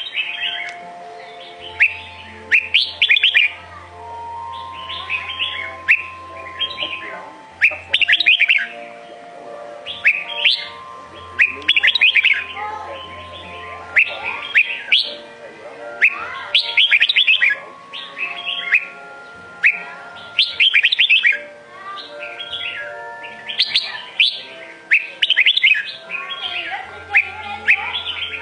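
Red-whiskered bulbul singing: short phrases of quick, bright chirping notes, a new phrase every second or two. This is the song type of eight to ten notes per phrase, used to teach young birds. A low hum sounds on and off underneath.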